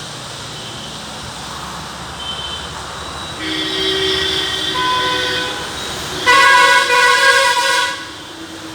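Two long vehicle horn blasts over the steady hiss of heavy rain and passing traffic: one starts about a third of the way in, and a second, louder one sounds near the end.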